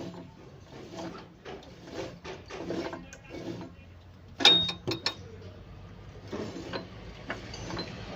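Tractor gearbox parts clicking, rattling and clunking irregularly, with a loud metallic clank about four and a half seconds in.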